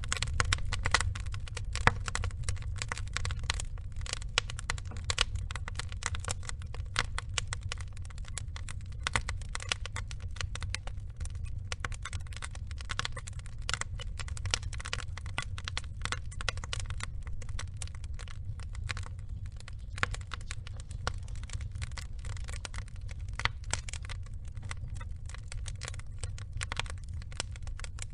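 Wood fire burning: logs crackling and popping in dense, irregular snaps over a steady low rumble of the flames, with a few louder pops about two seconds in.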